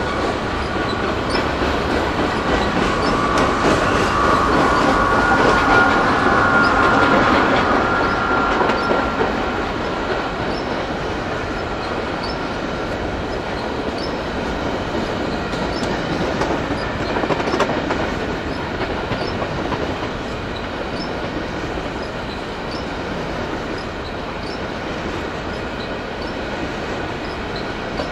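Empty covered grain hopper cars of a freight train rolling past on steel rails in a steady rumble. A high wheel squeal rises over it in the first third, where it is loudest, as the mid-train diesel locomotive goes by.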